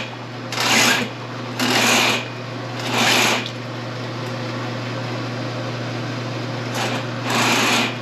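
Sectional drain-cleaning machine running with a steady motor hum while its cable is worked into a clogged main sewer line. Loud rasping bursts come about once a second, four times, then the machine runs steadily for a few seconds before one more burst near the end.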